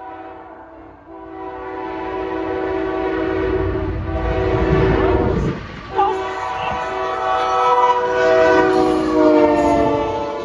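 Lead locomotive of a freight train, a GE ET44AC, sounding its multi-chime air horn in two long blasts with a short gap about five and a half seconds in, over the growing rumble of the diesel engine. Near the end the horn chord slides down in pitch as the locomotive passes.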